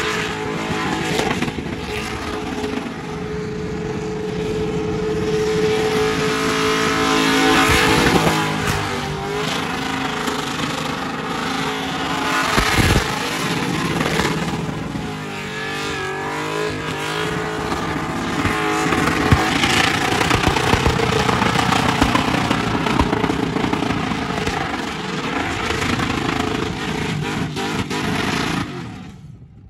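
LS-swapped V8 in a carburetted, E85-fuelled Ford Fairlane held at high revs through a burnout, the pitch rising and falling as the throttle is worked, over the hiss of spinning rear tyres. The engine note drops away near the end.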